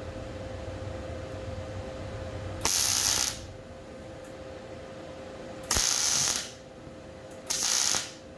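Three short bursts of MIG tack welding on plate steel, each a crackling sizzle of about half a second that starts with a sharp click, over a steady low hum.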